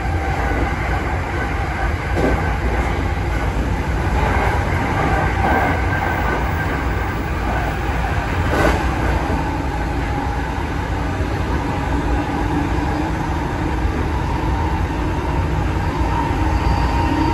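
E217 series electric train running, heard from its driver's cab: a steady rumble of wheels on rail. A sharp knock comes about nine seconds in.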